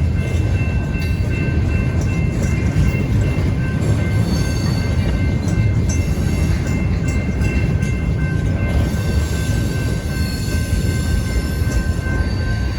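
Freight train rolling past: a steady heavy rumble of rail cars, with a few steady high ringing tones held over it.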